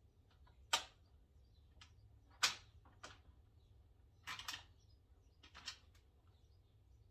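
A few scattered sharp clicks and knocks, the loudest two about a second and a half apart, from bolts and parts being handled and set in place during assembly, over a faint steady hum.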